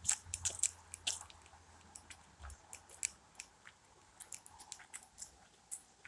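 Footsteps crunching on a woodland trail: a run of irregular, quiet crackles and crunches from leaf litter and twigs underfoot.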